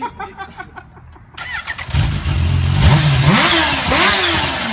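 A supercharged Kawasaki Ninja H2-series inline-four motorcycle engine starts up about two seconds in. It is then revved twice in quick blips before settling back to idle.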